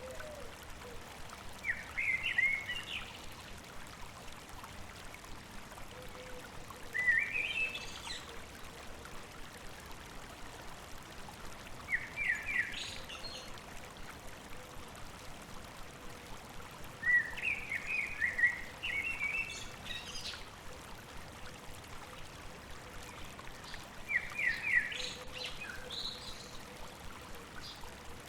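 A songbird sings short chirping phrases about every five seconds over the steady babbling of a stream.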